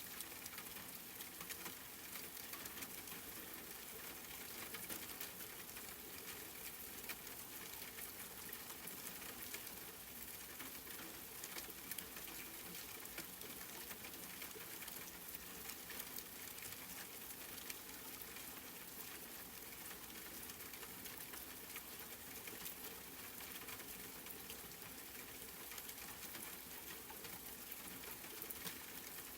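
Steady rain, with many small drops pattering in a fine, even crackle and no let-up.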